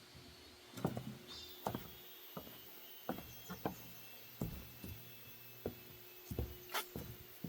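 Footsteps on a wooden boardwalk at a steady walking pace, each step a short hollow thump.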